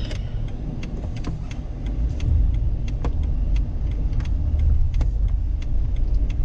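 Car heard from inside the cabin: a steady low engine and road rumble that grows a little louder about two seconds in, with scattered light ticks throughout.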